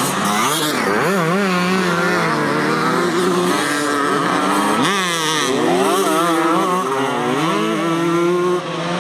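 Several motocross bikes racing, their engines revving up and down as they work through the gears, with sharp climbs in pitch about a second in and again about five seconds in.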